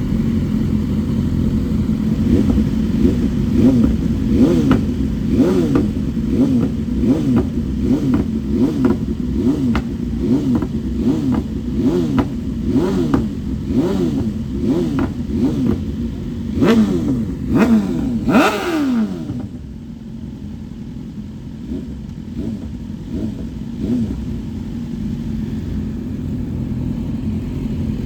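Motorcycle engine blipped in short revs over and over, about one every three-quarters of a second. It is given two higher revs near the two-thirds mark, then falls back to a steady idle.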